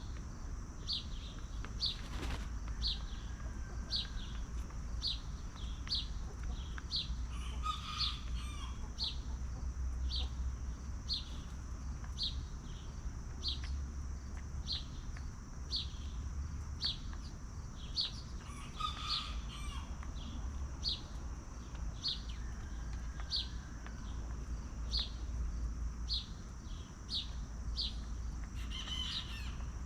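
Farmyard ambience with free-range chickens: a short high chirp repeats evenly about three times every two seconds over a steady high hum, and a chicken calls briefly twice, about a quarter and two-thirds of the way through.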